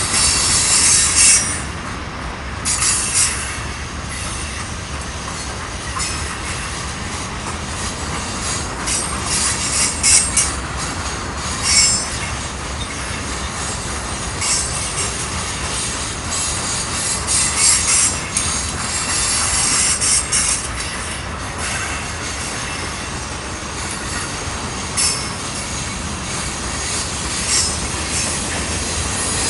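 Loaded centerbeam flatcars of a freight train rolling past, steel wheels rumbling steadily on the rail, with high-pitched wheel squeal coming and going several times.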